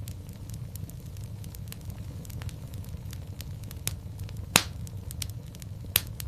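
Wood fire in a fireplace crackling, with a steady low rumble of flames and many small sharp cracks. There is one loud pop about halfway through and another near the end.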